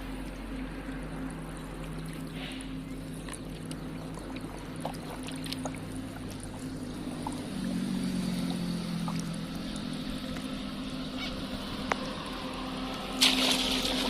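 A boat's motor running with a steady hum, its pitch shifting up slightly about halfway through, with scattered small knocks and a sudden short noisy burst near the end.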